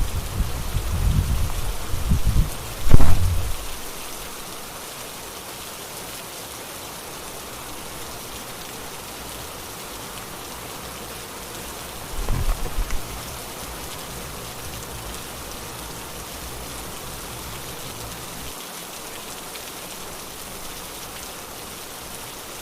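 Steady rainfall hissing evenly. Low rumbling bumps fill the first few seconds, with a loud thump about three seconds in and another short low bump around twelve seconds.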